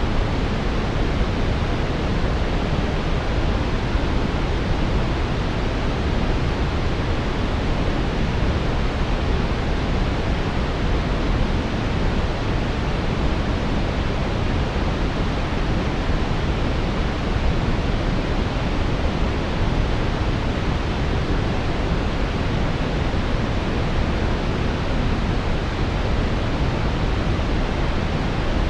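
Steady brown noise: an even, deep hiss weighted toward the low end, with no changes or events.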